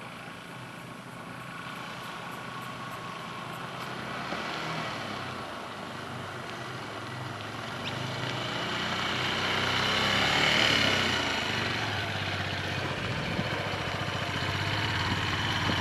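Motorcycle engine approaching, growing steadily louder to a peak about two-thirds of the way through, then running steadily close by.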